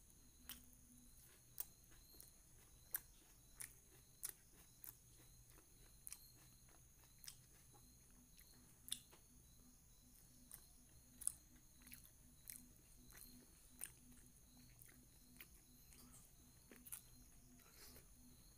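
Faint, close chewing of rice and chicken eaten by hand, heard as short wet mouth clicks and smacks every half second to a second, over a steady low background hum.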